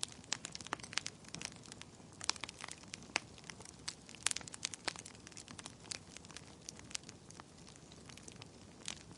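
Fire crackling: irregular sharp snaps and pops, several a second, over a low steady hiss.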